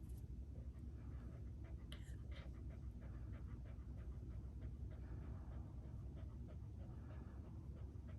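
Faint scratching and soft irregular clicks from a pet, over a steady low hum.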